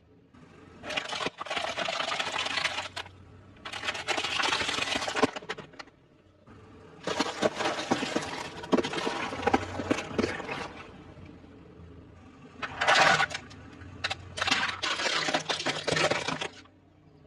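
Close-miked eating sounds: chewing and crunching food in five bursts of one to three seconds each, with short quiet gaps between them.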